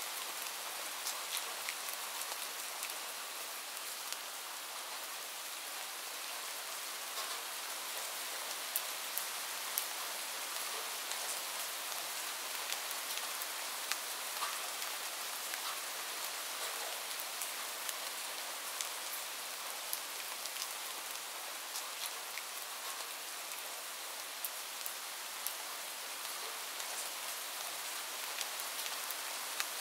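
Steady rain: a constant hiss of falling rain with many scattered ticks of drops landing.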